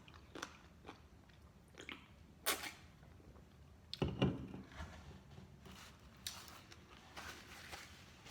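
Close-miked eating of fried chicken: biting and chewing with irregular crunches, the loudest about two and a half seconds in and again about four seconds in.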